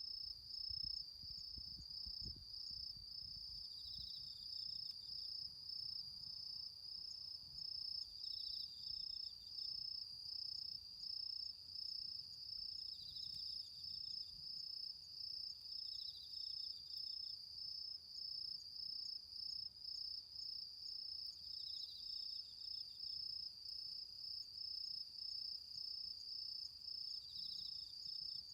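Crickets singing: one steady high pulsing trill, with a second insect's short chirp every three to six seconds a little lower in pitch.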